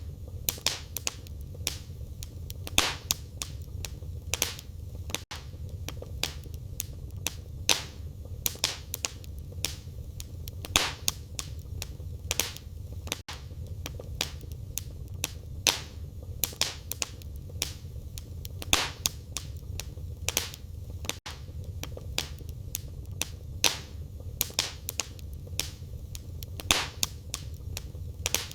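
Wood fire burning in a fireplace, crackling: irregular sharp pops and snaps, several a second at times, over a steady low rumble.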